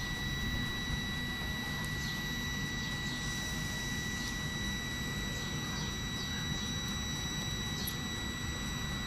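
Electric Intercity train at a station platform, its equipment running with a steady low rumble and a constant high-pitched whine.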